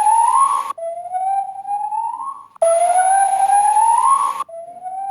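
Gibbon calling: a series of long, pure, whooping notes, each rising steadily in pitch, repeated back to back with louder and softer notes alternating.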